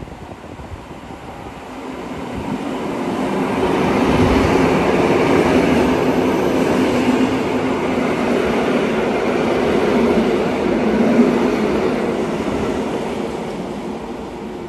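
A train passing along the track: the noise builds over the first few seconds, stays loud through the middle with a steady hum in it, then fades near the end.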